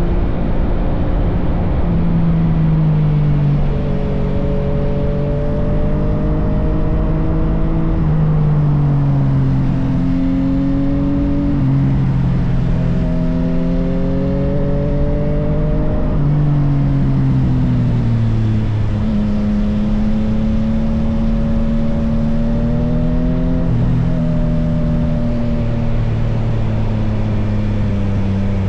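Yamaha XSR900's inline-three engine running through an M4 full exhaust under way. The engine note climbs slowly and then drops several times, as the throttle and gears change.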